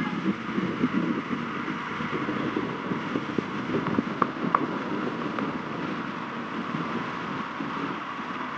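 Steady vehicle running noise with wind on the microphone, and two sharp clicks about four seconds in.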